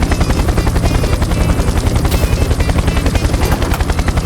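Mini tractor's small engine running steadily, with an even rapid pulse of about ten beats a second.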